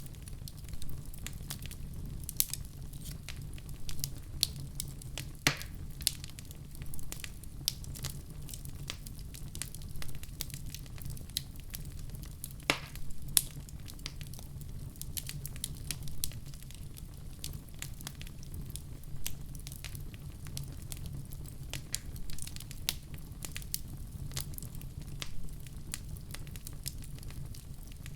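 Wood fire burning in a fireplace: a steady low rumble of flames with frequent sharp crackles and pops, a few of them louder.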